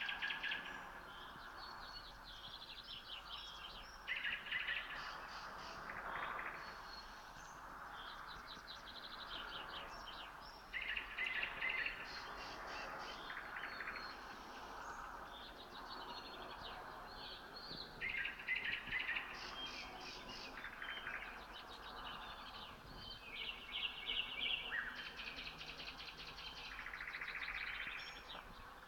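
Nightingales singing: loud phrases of rapid repeated notes and trills, one after another every few seconds, over a fainter continuous chorus of other songbirds.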